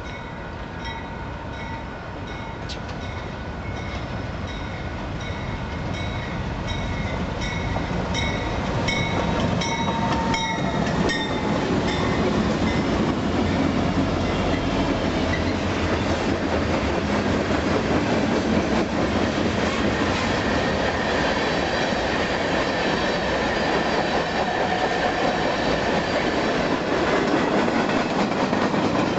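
Diesel-hauled freight train approaching and passing, growing louder over the first ten seconds with a run of evenly spaced clicks that come faster and faster. Then the steady rumble and clatter of its long string of freight cars rolling by.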